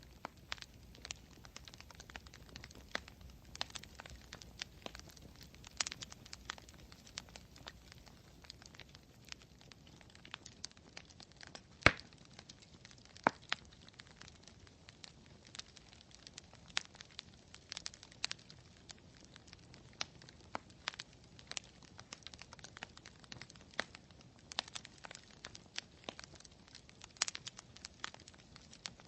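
Campfire crackling: irregular sharp pops and snaps over a faint low hiss, with one loud pop about twelve seconds in.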